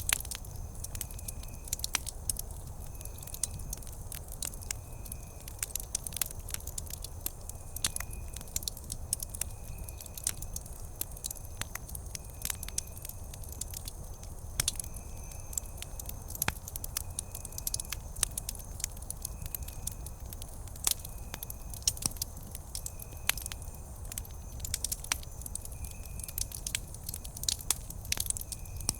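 Campfire crackling, with irregular sharp pops and snaps over a steady low rumble. A faint, short high-pitched chirp repeats about once a second throughout.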